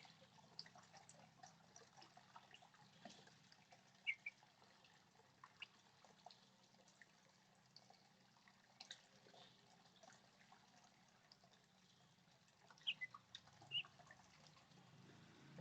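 Faint, scattered short bird chirps, loudest about four seconds in and again a few times near the end, over a faint low hum.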